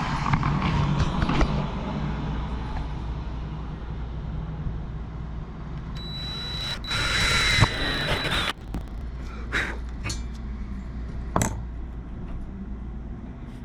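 Electric drill boring a blade-stopper hole through a wooden saw handle. The motor runs at first, then drills loudest for a couple of seconds past the middle with a steady high whine. A few sharp knocks follow.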